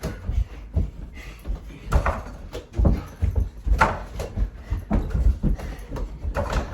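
Mini basketball thumping against a mini hoop's backboard and rim and bouncing, a quick irregular string of knocks and thuds during rapid shooting.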